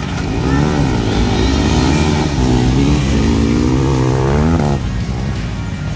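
Off-road racing motorcycle engine revving hard, its pitch rising and falling several times as the rider works the throttle and gears, then dropping away about five seconds in.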